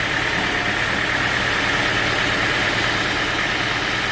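Sawmill machinery running steadily: a constant low engine hum under an even, higher rushing noise, with no cut starting or stopping.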